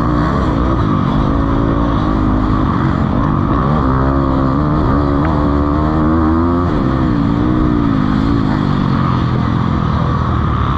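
Motocross bikes racing, their engines revving up and falling back again and again as the riders work the throttle through the course.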